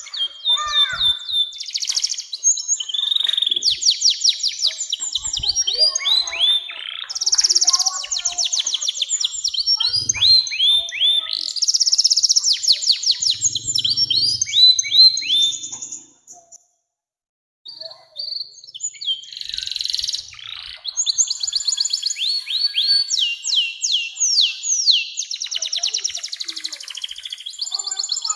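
Domestic canary singing a long rolling song: fast trills and rapid series of downward-sweeping high notes, phrase after phrase, breaking off about sixteen seconds in and resuming after a short pause.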